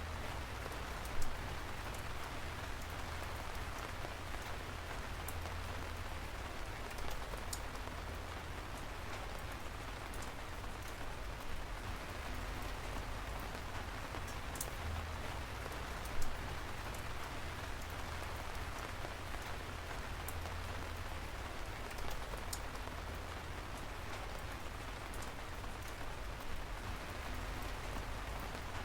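Steady rain falling: an even hiss with scattered sharper drop hits, two of them clearly louder, about a second in and about halfway through, over a low rumble.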